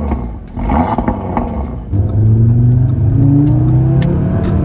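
Audi RS3's turbocharged five-cylinder engine pulling away: a rough rush of exhaust noise, then from about halfway in a steady engine note that climbs slowly in pitch as the car gently gathers speed.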